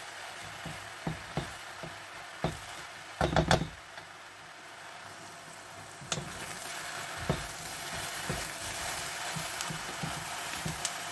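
Diced eggplant frying in hot olive oil in a wok, sizzling steadily while a wooden spatula stirs it, scraping and knocking against the pan. The loudest knocks come a little over three seconds in, and the sizzle grows louder about six seconds in.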